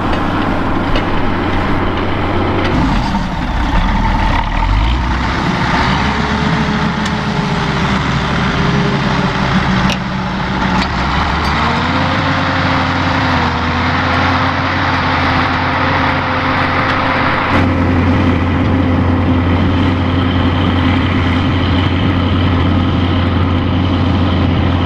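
Fiat 160-90 Turbo tractor's turbocharged diesel engine running with a steady drone. Its speed dips about three seconds in, picks up again around twelve seconds, and the note changes once more a few seconds later.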